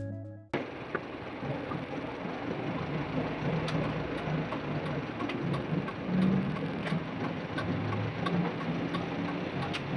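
Intro music cuts off about half a second in, giving way to a truck's diesel engine running at idle under a steady hiss of noise.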